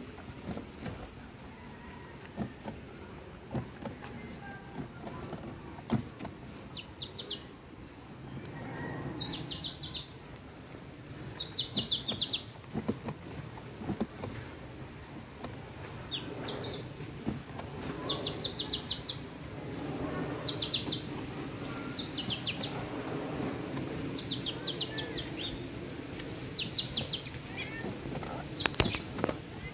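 A songbird singing the same short phrase over and over, every second or two: a high note followed by a quick run of falling notes.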